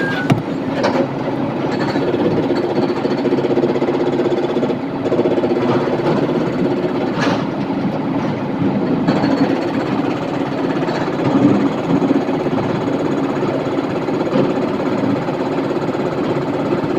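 Heavy diesel engine of quarry machinery running steadily under load, with a few sharp knocks, one near the start and one about seven seconds in.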